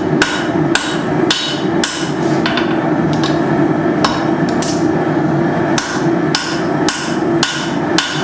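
Hammer blows forging a quarter-inch-thick steel plate thinner, about two a second with a short pause partway, each with a brief ring, over a steady rushing noise.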